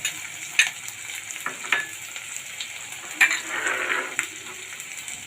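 An onion, capsicum and ginger-garlic masala sizzling in oil in a pan, stirred with a spatula that scrapes and knocks against the pan several times.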